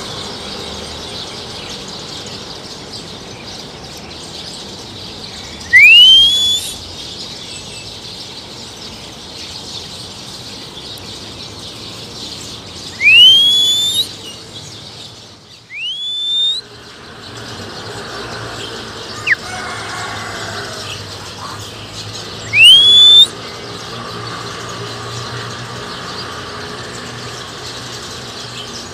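A loud whistle that slides upward and then holds, used to call a wild oriental magpie-robin. It comes four times, several seconds apart, over a steady background hiss, with one brief sharp falling note about two-thirds of the way through.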